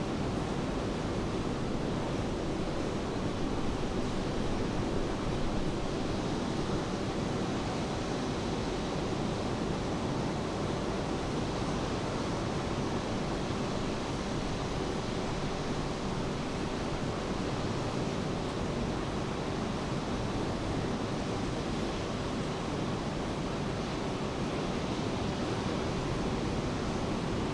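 Steady rain falling, an even wash of noise with no breaks.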